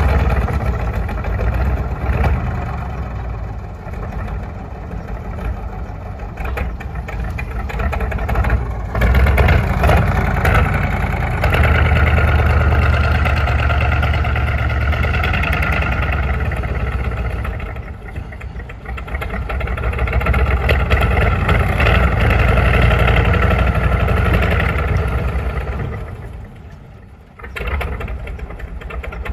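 KV-1 tank's V12 diesel engine running while the tank is driven, the engine note swelling and easing several times, with a sharp drop about 27 seconds in before it picks up again.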